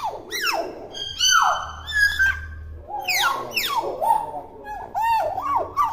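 Young hill myna calling nonstop in its natural voice, not yet mimicking speech: a quick run of loud, sharply falling whistles, rise-and-fall whistles and short squawks, several a second.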